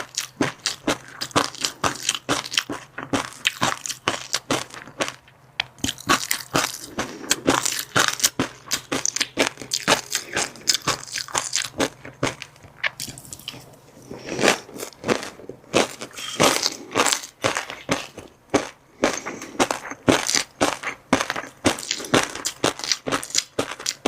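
Close-miked eating sounds of fish roe and crunchy chili-garlic seafood: quick irregular crunching and crackling bites, several crisp clicks a second, with a short lull about halfway through.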